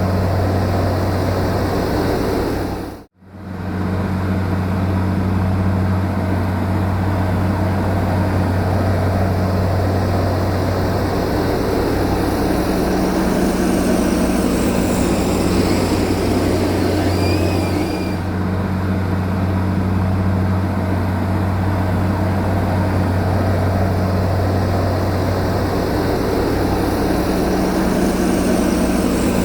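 Heavy diesel engine of an earth-moving machine such as a bulldozer, running steadily with a deep, even hum. The sound drops out briefly about three seconds in.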